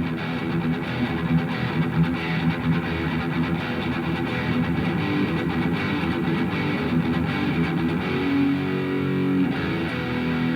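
Electric guitar played through a Revv G3 preamp/distortion pedal: chords picked and held, changing about eight seconds in.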